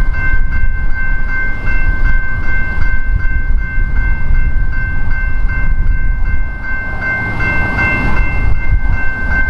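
BNSF grain train's cars rolling past close by: a heavy, steady low rumble of wheels on rail. A steady high-pitched ringing with a regular pulse sounds over it throughout.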